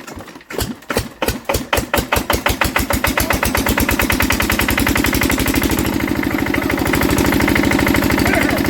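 Old Enfield stationary diesel engine cold-starting: widely spaced firing strokes quicken over the first few seconds and settle into a steady, even running beat.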